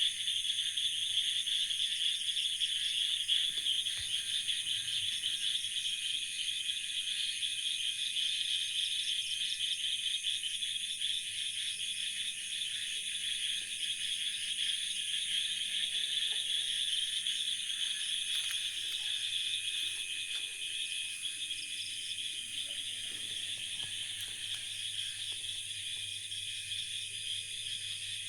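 Night chorus of frogs and insects calling after heavy rain: a dense, steady trilling, with faint scattered calls lower down.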